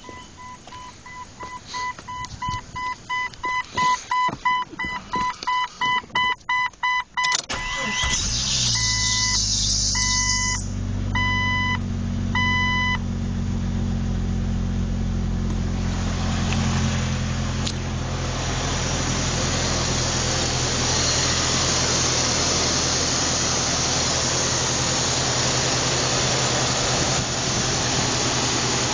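Freshly swapped engine in a 1997 Jeep Cherokee being cranked by the starter in even pulses for several seconds while an electronic chime beeps. It catches about seven seconds in and settles into a steady idle, with the chime stopping a few seconds later. A rushing hiss builds over the idle from about halfway through.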